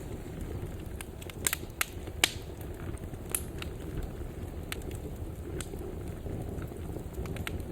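Wood fire burning in a fireplace: a steady low rush of flames with irregular crackles and sharp pops, the loudest a cluster of snaps about one and a half to two and a half seconds in.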